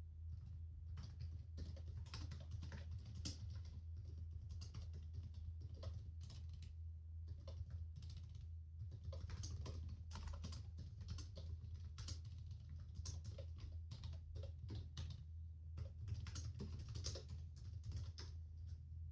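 Typing on a laptop keyboard: a continuous, irregular stream of soft key clicks over a low steady hum.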